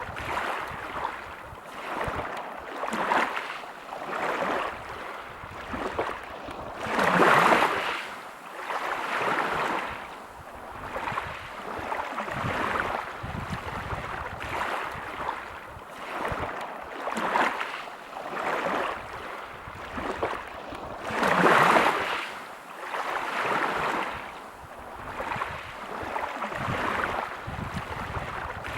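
Small waves breaking and washing over a pebble beach, the surf rising and falling in repeated swells, with two louder breakers at about 7 and 21 seconds in.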